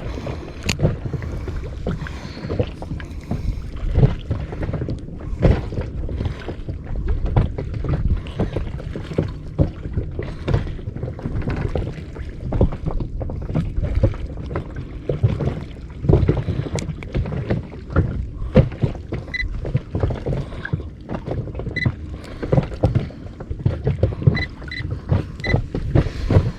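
Sea water slapping and knocking irregularly against the hull of a small inflatable boat, with wind on the microphone. A few short high beeps come near the end.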